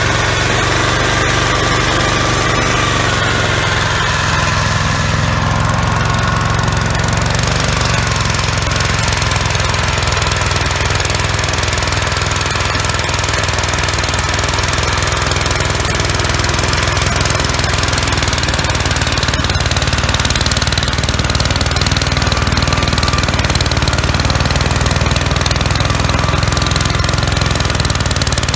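1966 Gravely LI walk-behind tractor's single-cylinder engine running steadily, driving an MA115 Deluxe snowblower. It gets a little louder about two-thirds of the way through.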